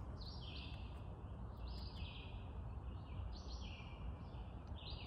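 A songbird singing short, high phrases over and over, about one every second and a half, over a low steady rumble.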